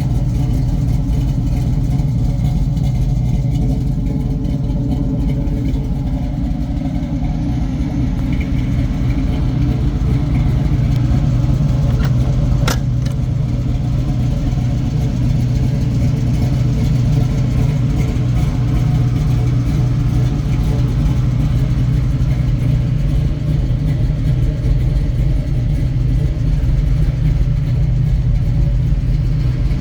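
1969 Chevrolet Camaro's 383 V8 idling steadily, with a single sharp click about twelve and a half seconds in.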